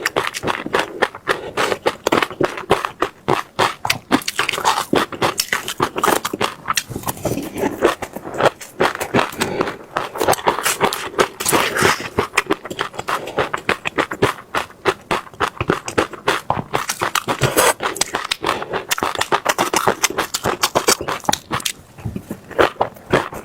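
Close-miked mouth crunching seeds: a dense, unbroken run of sharp crackles and crunches.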